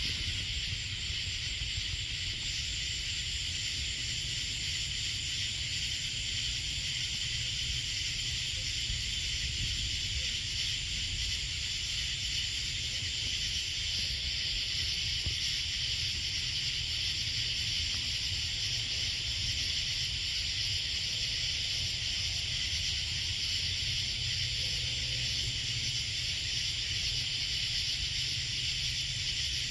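Steady, high-pitched chorus of evening insects, unchanging throughout, over a steady low rumble.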